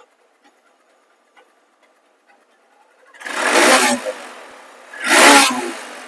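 A Hero Hunk motorcycle's single-cylinder engine, quiet for the first three seconds, then revved twice in short throttle blips, each rising and dying back down. The exhaust note is the stock factory tune, which the seller calls very nice.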